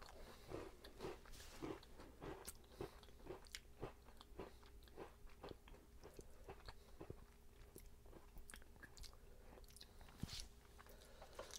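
Faint chewing and crunching of Bisco strawberry-cream biscuits: small, irregular crunches about one or two a second.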